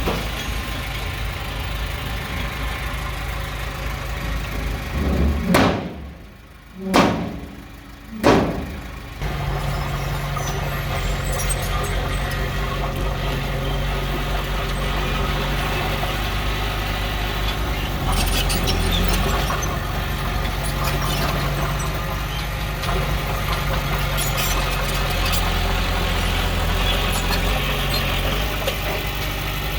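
Heavy diesel earthmoving machinery running steadily. About six to nine seconds in, the sound drops away three times, each drop framed by a brief loud swell, before the steady drone returns.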